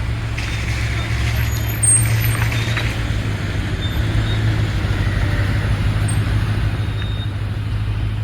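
A road vehicle's engine running close by with a steady low rumble, with a hiss on top that is strongest in the first few seconds.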